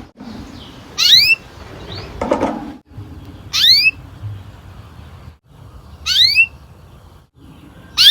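Domestic canary giving short rising chirps, four in all, one about every two and a half seconds, with a softer, lower sound between the first two.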